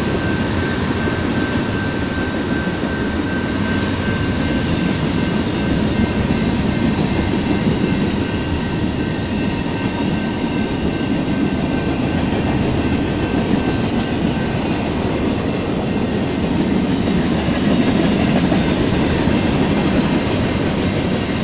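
A long freight train's tank cars and boxcars rolling past: a steady rumble of steel wheels on rail, with a thin, steady high-pitched tone over it that fades about halfway through.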